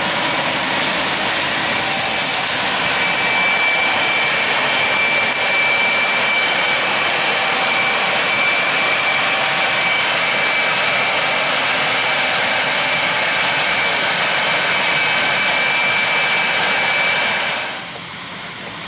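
Large harvest machinery (combine or tractor) running hard close by: a steady roar with a thin high whine over it, dropping off sharply near the end.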